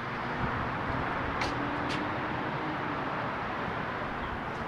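Steady outdoor background rumble with a faint hum, and two light clicks about one and a half and two seconds in.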